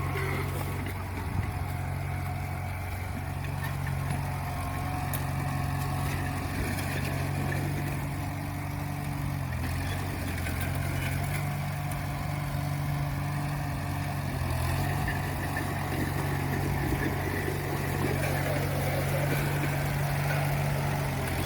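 Engine of a 1947 custom tractor running steadily at a low, even speed.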